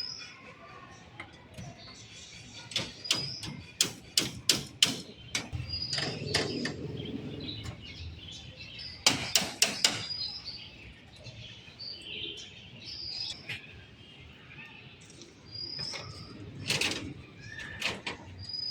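Scattered sharp knocks and clanks, coming in quick runs of several strokes a few times, with a small bird chirping short calls over and over between them.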